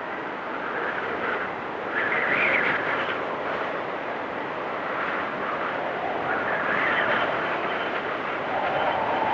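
Blizzard wind blowing in gusts, a steady rushing noise that swells about two seconds in, again around seven seconds, and near the end.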